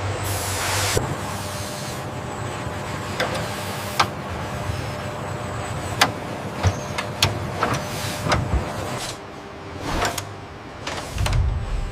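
Factory floor noise: a low machine hum with a brief hiss of air near the start, then a scattering of sharp metallic clicks and knocks.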